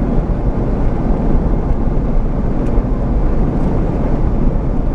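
Steady low rumble of a vehicle driving slowly, engine and road noise heard from inside the cab.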